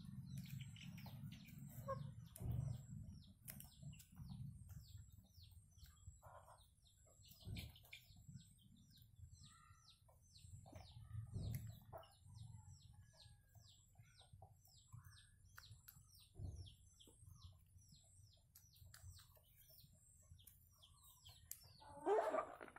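Faint, steady run of short, high, downward chirps from a small bird or chick, about two to three a second, with a few low rumbles early on and a louder pitched sound near the end.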